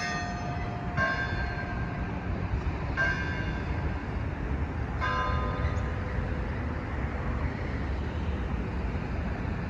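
Church bells struck four times in the first five seconds, each stroke ringing on and fading away, over a steady low background rumble.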